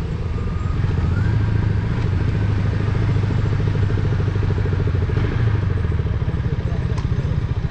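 KTM 200 motorcycle's single-cylinder engine running steadily under the rider, its note dropping about six seconds in as the bike eases off.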